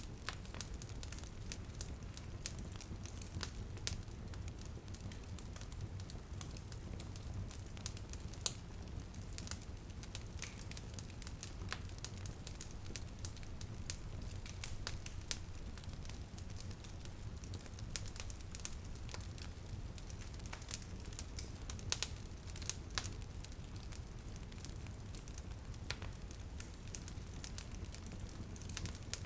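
Wood fire in a fireplace crackling, with irregular sharp pops and snaps over a steady low rumble of the flames, and light rain on a window beneath it.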